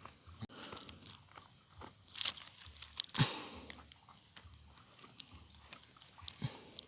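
Gravel and stones crunching and clicking as a target is dug and pried out from between rocks, with a louder burst of scraping and crunching about two to three seconds in.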